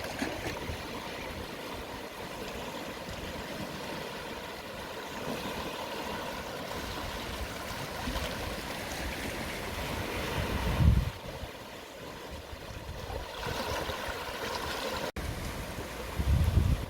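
Gentle sea waves washing in at low tide, a steady wash of water that swells and eases. A brief low rumble comes about two-thirds of the way through, the loudest moment, and another near the end.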